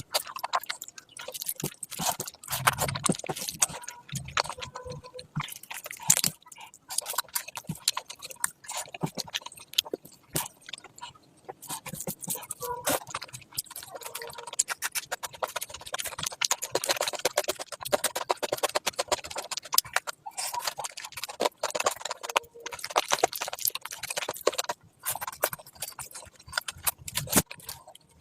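Close-miked chewing of oily curry and rice: a steady run of wet smacking, squishing and clicking mouth sounds with short pauses between mouthfuls.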